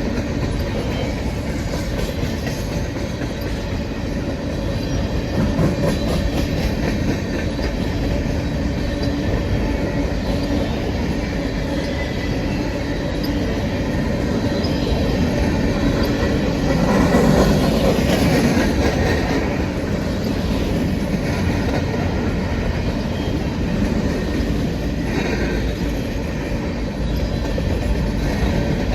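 A train's cars rolling past at close range: a steady rumble of steel wheels on the rails with some clickety-clack over the joints, swelling louder about two-thirds of the way through.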